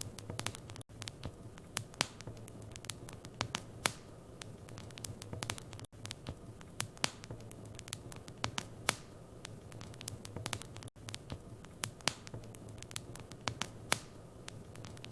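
Wood fire crackling in a fireplace: irregular sharp pops and snaps over a low steady rumble. The sound cuts out for a split second about every five seconds.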